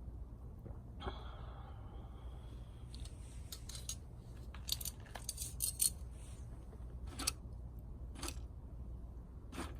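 A cluster of sharp clicks and light snaps, then three single clicks spaced about a second apart, over a steady low hum.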